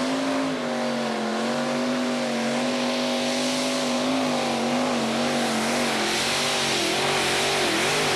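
Pulling tractor's engine held at high, steady revs, its pitch wavering slightly. It rises just before and then holds.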